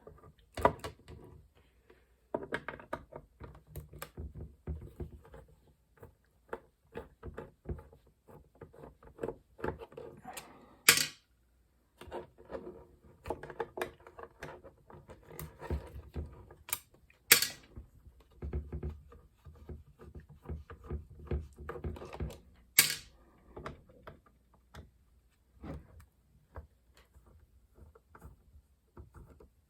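Screws being backed out of an external Macintosh floppy drive's case and the plastic casing being handled: scattered light clicks, taps and scrapes, with a few sharp clicks standing out.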